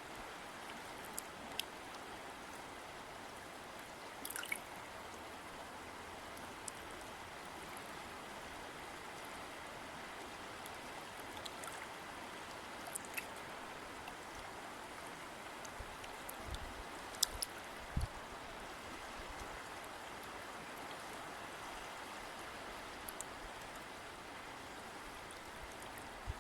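River water flowing steadily in an even rush, with scattered short sharp splashes or ticks and a few low thumps about two-thirds of the way through.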